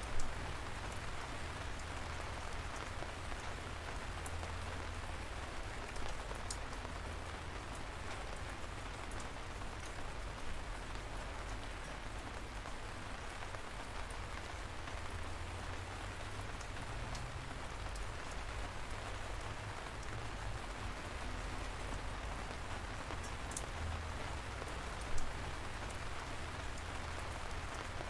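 Steady light rain: an even hiss with a low rumble underneath and scattered individual drops tapping close by, two of them louder, near the start and a few seconds before the end.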